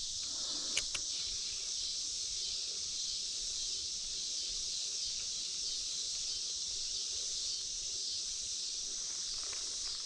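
Steady high-pitched insect chorus, with a couple of faint clicks about a second in.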